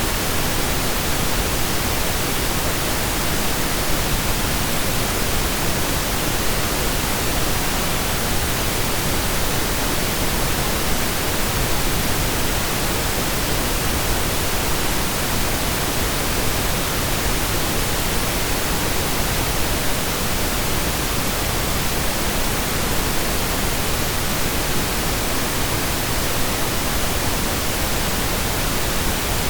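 Steady synthesized pink noise, an even hiss with no changes or events.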